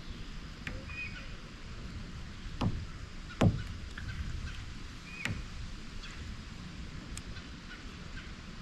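Wind buffeting the microphone as a steady low rumble, with three short knocks, the loudest about three and a half seconds in.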